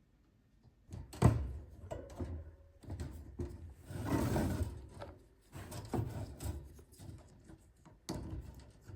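Iron wire cage panels and plastic snap clips being handled and pressed together: a sharp click about a second in, then scattered knocks, rattles and rubbing of the mesh.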